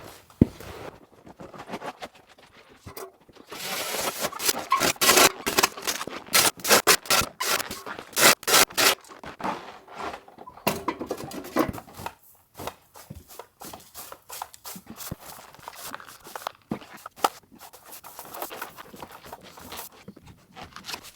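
Dry, cold snow crunching and scraping in a quick irregular run of strokes, loudest and densest from about four to nine seconds in, then sparser and quieter.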